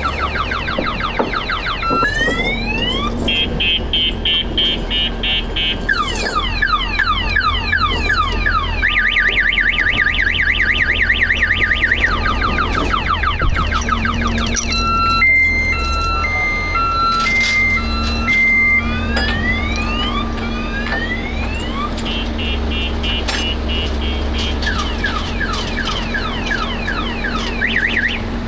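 Car alarm siren cycling through its patterns: fast repeated rising whoops, a rapid warble, quick beeps and an alternating two-tone beep, over the steady low rumble of an idling engine.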